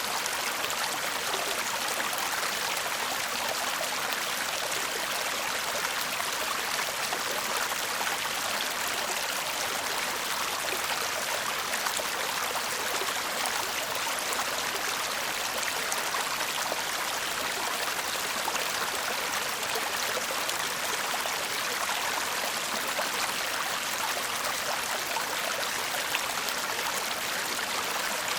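Shallow stream babbling and trickling steadily.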